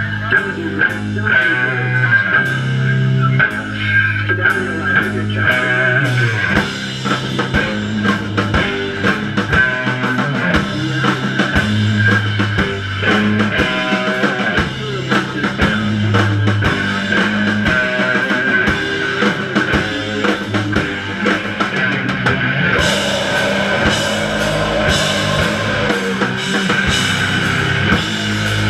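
Hardcore punk band playing live: electric guitar, bass and drum kit in an instrumental passage without vocals. About 23 seconds in, the cymbals come in louder and brighter.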